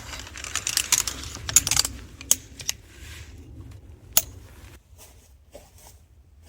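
Camping gear being handled and set down: rustling for about two seconds, then a few sharp clicks and knocks, the loudest about four seconds in, trailing off to faint taps.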